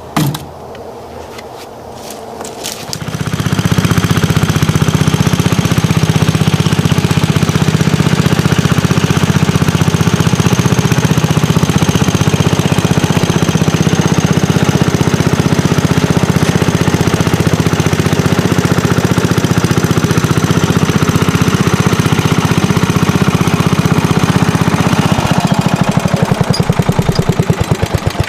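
Vintage garden tractor's engine coming up to speed about three seconds in, then running steadily and loudly. Near the end it slows so that its separate firing beats can be heard.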